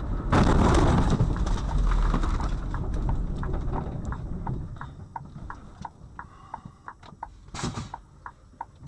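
A car collision heard from inside the car: a loud crash just after the start that dies away over a couple of seconds, followed by a steady run of regular clicks, about three a second.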